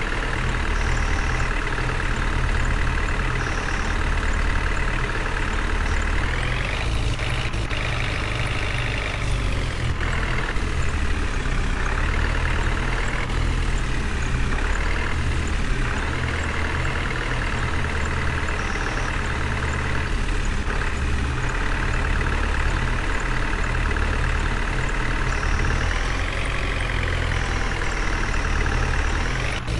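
A heavy vehicle's engine running steadily, rising in pitch as it revs about seven seconds in and again near the end.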